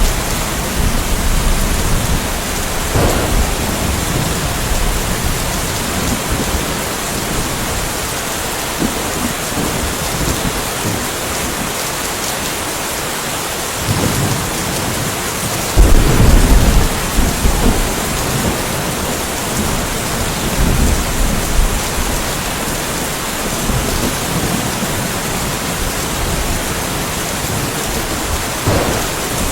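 Steady rain falling, with rolls of thunder rumbling underneath; the loudest thunder rumble comes about halfway through, with smaller ones near the start and end.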